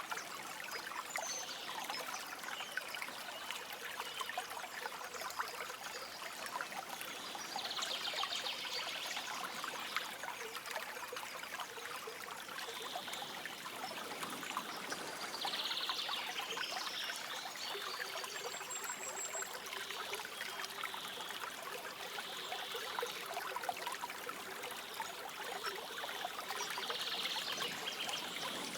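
A stream trickling and flowing steadily, with short bird trills breaking in now and then, about half a dozen times.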